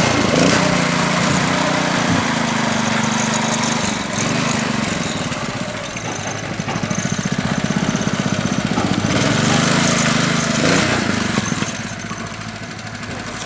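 Small petrol engine of a concrete power trowel running steadily, its speed easing down and picking up again a couple of times.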